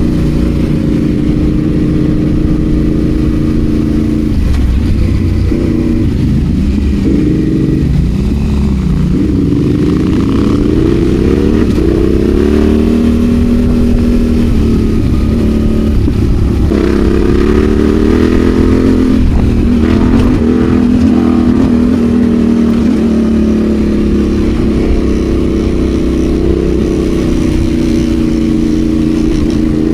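Adventure motorcycle engine running under load on a rough off-road lane. Its pitch repeatedly rises and falls over a few seconds at a time as the rider opens and closes the throttle. A steady low rumble runs underneath.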